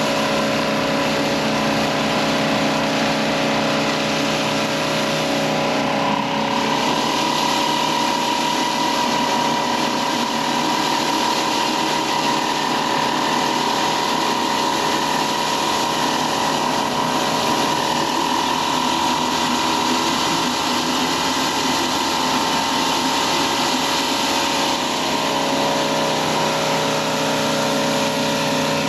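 Stihl RB 400 gas pressure washer running steadily, with the hiss of its high-pressure spray on concrete. A higher steady whine joins about six seconds in.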